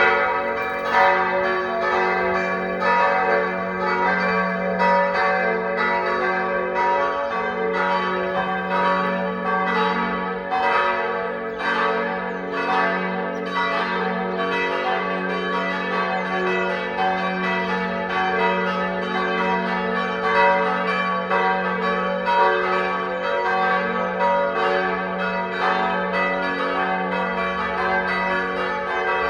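Church bells pealing, several bells of different pitches swinging and striking in a continuous, overlapping peal that rings steadily throughout: the bells calling to Sunday service.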